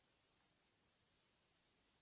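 Near silence: faint steady hiss with no distinct sound.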